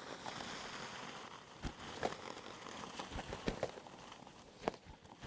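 A lek of displaying male ruffs, with no calls: a steady rustling of feathers broken by about half a dozen irregular sharp thumps and clicks from the birds beating their wings.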